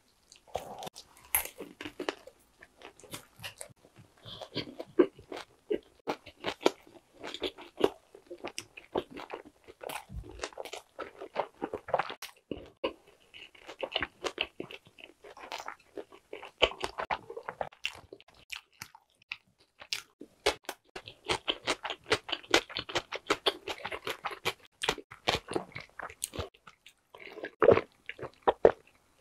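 A bite into thick pan-crust pepperoni pizza, then steady crunchy chewing with many irregular crackles and wet clicks. Near the end comes a short, louder sip of a drink through a straw.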